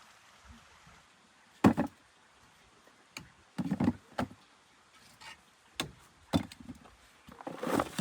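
Irregular knocks and thumps, six or seven in all, the sharpest about a second and a half in, with a longer, rougher noise near the end.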